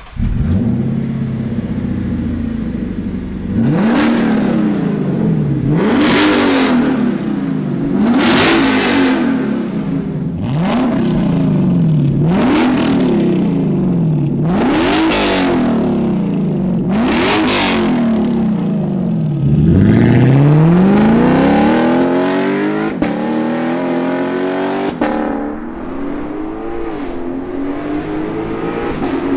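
Lexus LC500's 5.0-litre V8 through an Armytrix valvetronic exhaust, idling and then revved in about seven sharp blips, each climbing in pitch and falling back to idle. About twenty seconds in it accelerates hard, the pitch climbing for several seconds.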